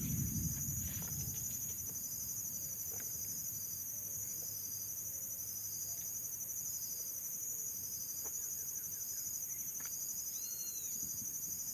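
Steady chorus of insects, a high pulsing trill that carries on without a break, with a short chirping call near the end.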